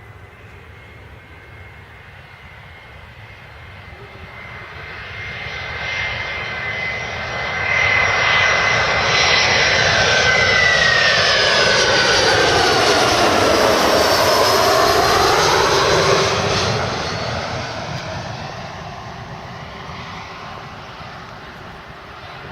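Boeing 737-500 with CFM56-3 turbofan engines flying past on its landing approach. A steady high whine grows over about eight seconds to a loud, sustained noise, its tones gliding down in pitch as the jet passes, then fades away over the last several seconds.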